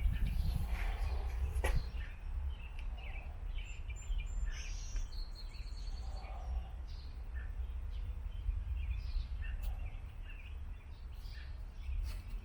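Steady low rumble of wind and riding noise on the microphone of a moving bicycle, with birds chirping here and there.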